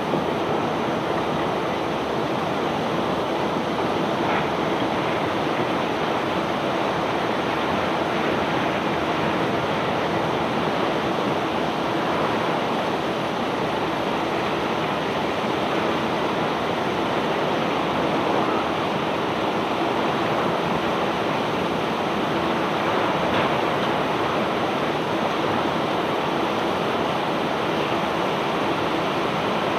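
Steady rushing noise of bulk cargo pouring off a self-unloading barge during discharge, even and unbroken throughout.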